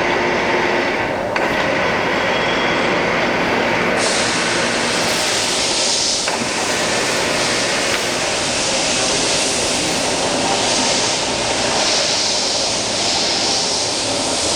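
Poreba TR 115B heavy-duty engine lathe running with its carriage traversing lengthwise along the bed under rapid power travel: a loud, steady mechanical rumble and whir. The sound turns brighter and hissier about four seconds in.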